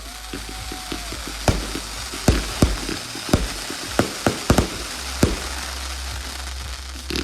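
Fireworks hissing and crackling, with irregular sharp pops throughout.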